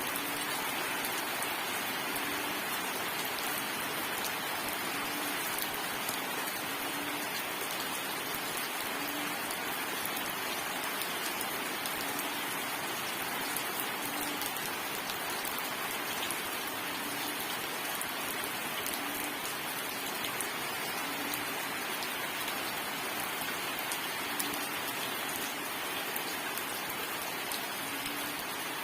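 Steady rain falling and pattering on surfaces: an even, unbroken hiss with no thunder.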